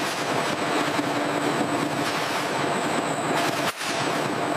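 Steady rushing noise of production-line machinery, with a low hum running through it and a momentary break about three and a half seconds in.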